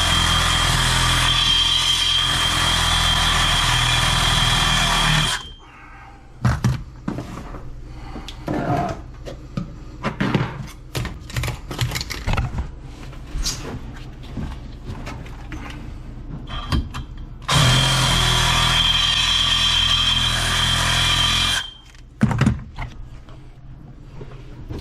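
A handheld power tool runs steadily with a high whine in two spells of about four to five seconds each, stopping suddenly each time, with scattered knocks and clatter of work on the pipes in between.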